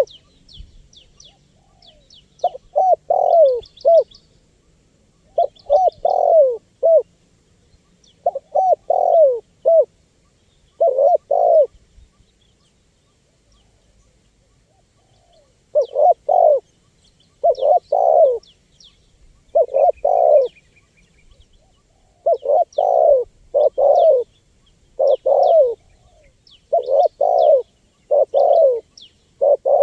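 Spotted dove cooing in repeated phrases of two to four notes, with a pause of a few seconds just before the middle. Faint high chirping sits behind the coos.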